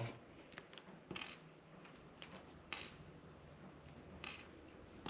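Several faint, short metallic clicks and snaps, spread out: small crimp terminal pins being broken off their carrier strip one at a time.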